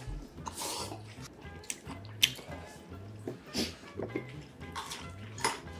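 Wet chewing and mouth smacks from eating a juicy peach sandwich, with a few sharp clicks, over soft background music with a steady low beat.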